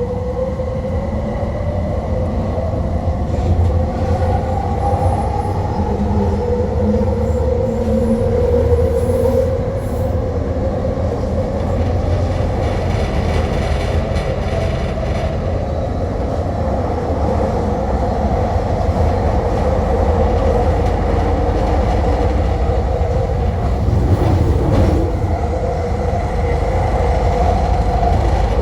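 Elevated rapid-transit train running, heard from on board: a steady low rumble of wheels on the track, with a motor whine that drifts up and down in pitch.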